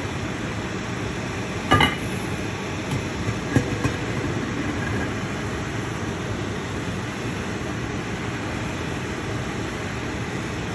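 Steady rushing noise of a cooking setup, with a utensil clinking against a metal pot just under two seconds in and again about a second and a half later, followed by a few lighter ticks.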